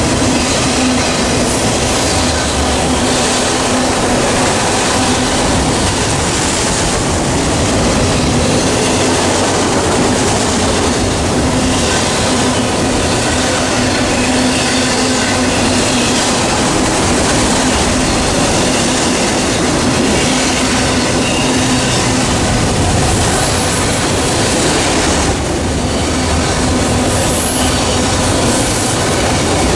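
Norfolk Southern train passing close by, a loud, steady rolling noise with a steady low tone running under it.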